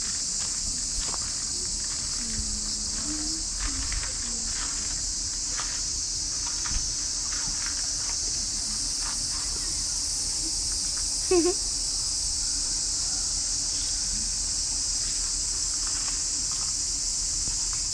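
A steady, unbroken summer insect chorus with a high-pitched drone, joined by faint voices in the background and one short louder sound about eleven seconds in.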